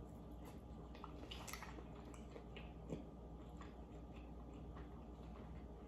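Faint chewing of a bite of lobster meat, with scattered soft mouth clicks.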